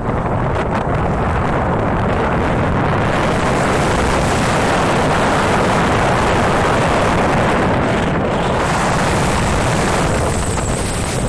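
Strong wind blowing across the microphone: a loud, steady rush that picks up about three seconds in and eases slightly near the end.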